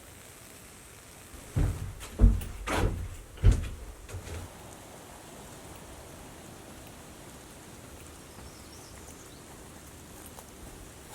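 Five or so dull thumps and knocks in quick succession starting about a second and a half in, then a steady faint hiss.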